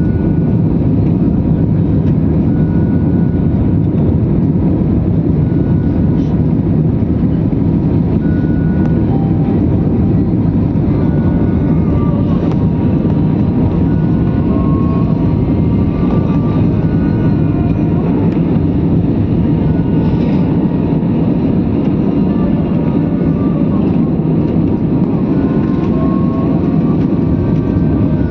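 Airplane engines running during takeoff: a loud, steady low rumble that holds even throughout.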